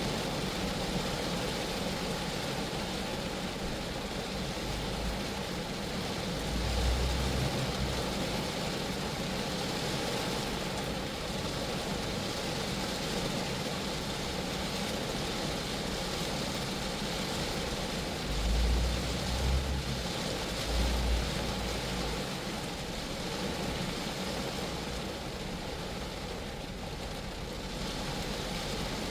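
Steady rain falling on a Geo Metro, an even hiss of drops on the car's body. Brief low rumbles come through about a quarter of the way in and again two or three times about two-thirds through.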